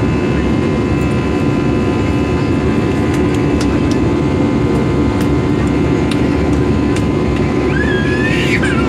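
Steady cabin roar of an Airbus A320-214 climbing after takeoff: CFM56 engines and rushing airflow heard from an economy seat, with a few steady whining tones above the roar.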